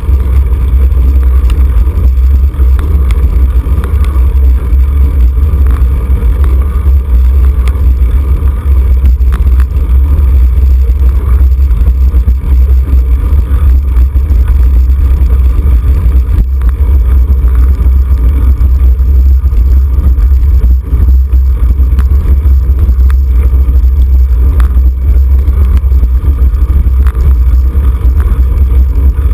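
Steady, loud low rumble of wind buffeting a camera microphone mounted on a moving road bicycle, with faint tyre and road noise beneath it.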